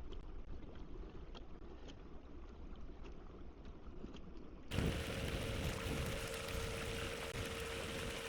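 Low water noise against a kayak hull with faint clicks. About five seconds in it gives way suddenly to a louder rush of water under a steady electric whine: a bow-mount trolling motor pushing the kayak along.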